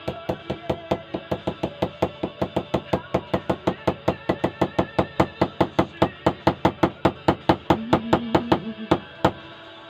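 Ball peen hammer tapping a loose metal ring on a wooden clarinet joint, working it back down into place. The light taps come quickly and evenly, about five a second, and stop shortly before the end.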